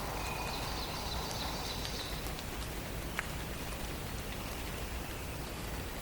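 Songbird singing a high, trilling song for about two seconds near the start, over a steady hiss with faint patter. A single sharp tick comes about three seconds in.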